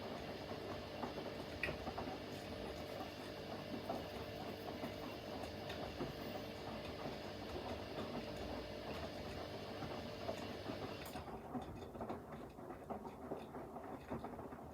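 Front-loading washing machine running a quick 40 °C wash, drum tumbling the load with a steady motor hum and small clicks and rattles. About eleven seconds in, a higher hiss cuts out while the hum and tumbling go on.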